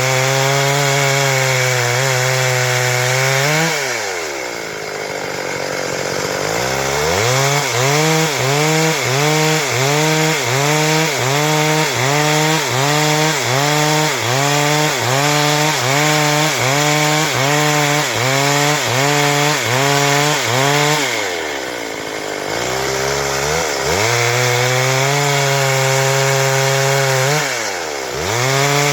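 Stihl MS 382 two-stroke chainsaw running at high revs while sawing through wood. Through the middle stretch its pitch dips and recovers a little over once a second. Its revs sag and climb back about four seconds in, again past twenty seconds, and near the end.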